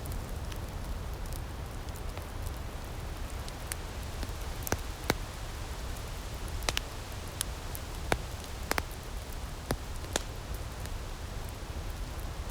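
Wood fire crackling in an outdoor firepit: a steady soft hiss with irregular sharp pops, which come louder and more often through the middle.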